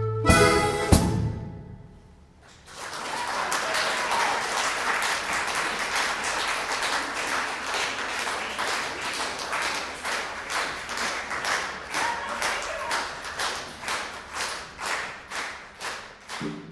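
A musical ensemble ends a piece with two sharp final accents, then after a brief pause an audience applauds, the clapping thinning to scattered separate claps near the end.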